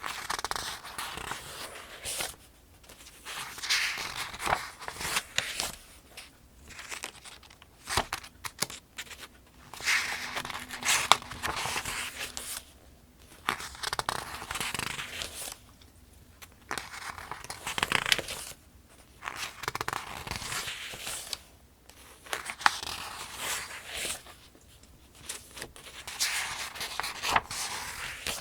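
Paper pages of a paperback almanac being turned one after another: a rustling swish every two to three seconds, with short pauses between.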